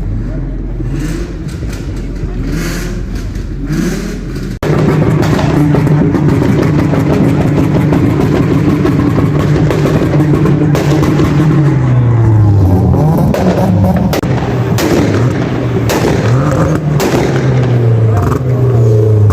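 Loud car engine running, then revved repeatedly, its pitch rising and falling over and over, with a few sharp cracks near the end. There is an abrupt change a few seconds in, after which the engine becomes much louder.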